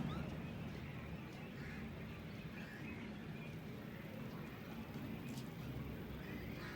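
Faint waterbird calls, scattered over a steady low background rumble.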